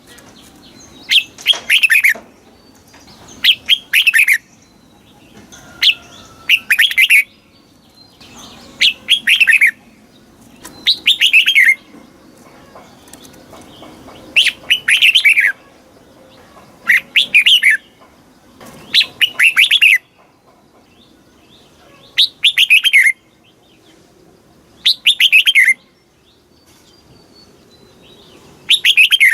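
Red-whiskered bulbul singing: short, loud phrases of quick falling whistled notes, repeated about every two seconds with brief pauses between them.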